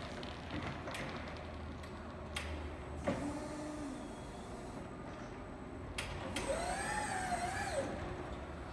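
Electric forklift truck at work: a steady low hum with a few sharp clicks, and a wavering whine of a bit over a second near the end.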